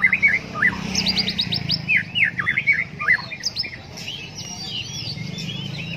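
White-rumped shama (murai batu) singing a fast, varied song of quick rising and falling whistled notes, including a rapid run of high upsweeps about a second in; the song grows sparser after about three and a half seconds.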